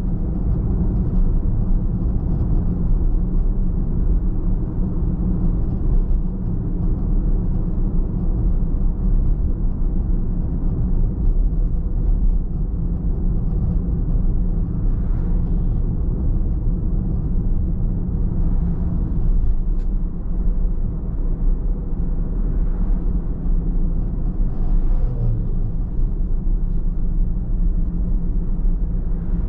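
A car driving at a steady pace: a constant low rumble of tyres on the road and the engine, with a few brief faint swells in the middle stretch.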